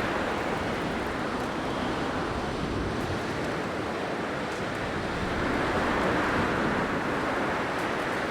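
Blizzard wind blowing in a steady rushing gust, swelling a little about five seconds in.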